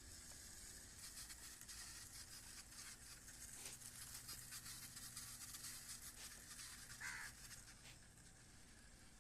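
Faint crackling rustle, with one short bird call about seven seconds in.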